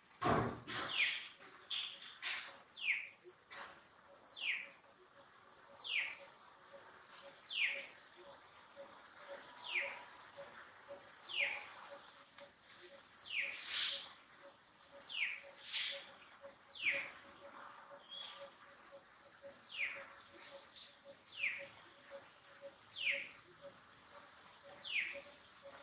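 A bird calling over and over: short high notes that slide downward in pitch, one about every second and a half, with a few sharper, higher chirps in between.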